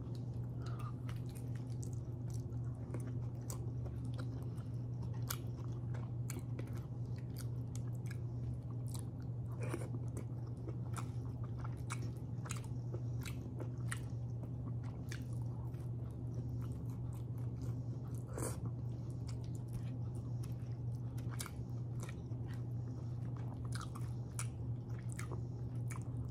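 Close-up mouth sounds of a person eating grilled pork chop and rice by hand: chewing with many short wet clicks and smacks scattered throughout, over a steady low hum.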